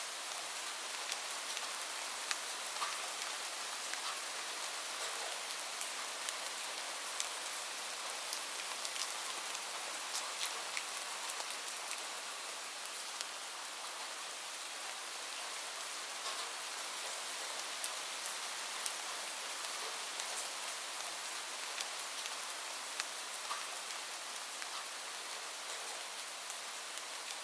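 Steady rain falling, an even hiss with many small individual drops ticking throughout.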